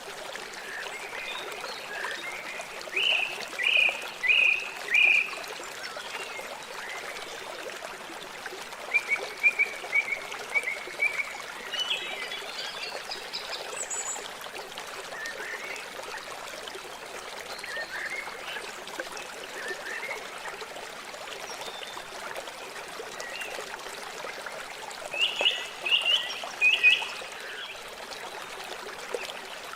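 A river flowing steadily, with bird chirps in quick runs of four or five calls that recur every few seconds above the water.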